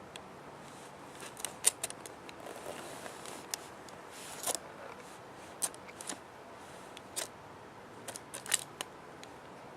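A pet budgerigar at a mirror making short, sharp clicks and taps at irregular intervals, about a dozen of them, the loudest coming near the start and again near the end.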